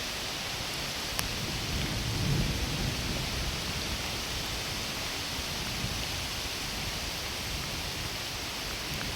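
Heavy rain falling steadily in a forest, a dense even hiss of drops on foliage. A low rumble underneath swells briefly about two seconds in.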